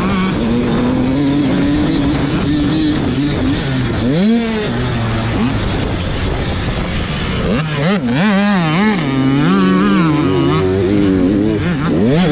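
85cc two-stroke motocross bikes racing, engines revving hard with the pitch climbing and dropping as the throttle opens and closes. From about eight seconds in, the pitch wavers quickly up and down over several seconds.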